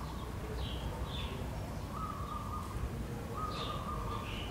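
Birds calling faintly: a few short high chirps and two longer, steady whistled notes, over a low steady rumble of room noise.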